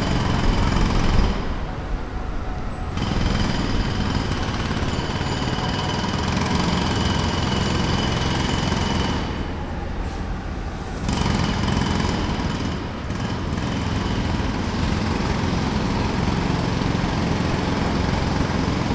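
Jackhammer hammering in long runs on a construction site, stopping briefly twice, about two seconds in and about ten seconds in, over a steady low rumble.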